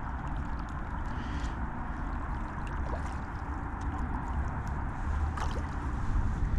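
Steady wind noise on the microphone over small waves lapping at the water's edge, with a few faint ticks.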